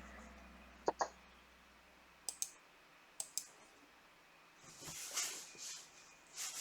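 Sharp clicks in quick pairs, three pairs within the first few seconds, followed by a few soft rustling swishes near the end.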